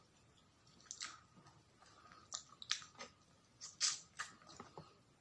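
Faint, wet mouth clicks and smacks of a person chewing a mouthful of soft ube cake, coming irregularly.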